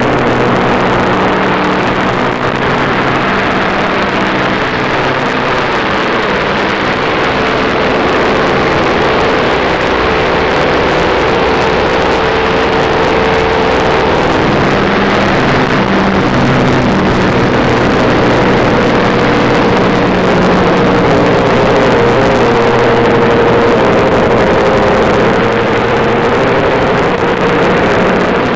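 Stock race car's V8 engine running hard at track speed, heard from inside the car together with the roar of wind and tyres. The engine note sags slightly around the middle and then climbs again.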